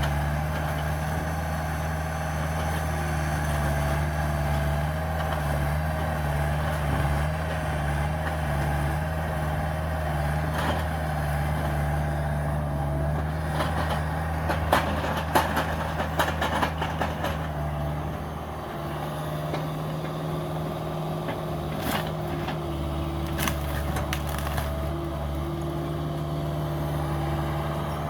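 Cat 305 mini excavator's diesel engine running steadily, with a cluster of sharp cracks and snaps about halfway through and a few more later.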